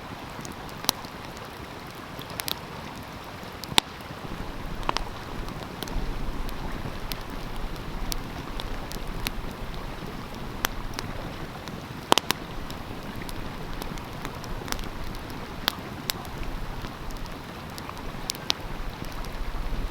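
Wood fire crackling with scattered sharp pops, the loudest about twelve seconds in, over the steady rushing of a stream. A low rumble joins about six seconds in.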